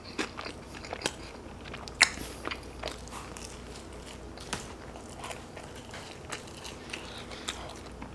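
Close-miked eating of pizza crust dipped in a creamy white dip: a bite, then wet chewing with irregular mouth clicks and smacks, the sharpest about two seconds in.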